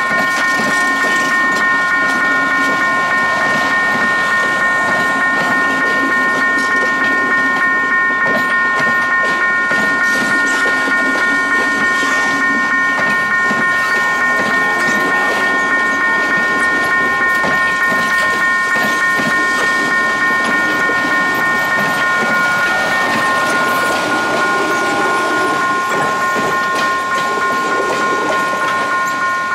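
Electric multiple-unit commuter train passing close by, its wheels clattering over the rails in a fast regular rhythm, with a steady high-pitched whine over the top.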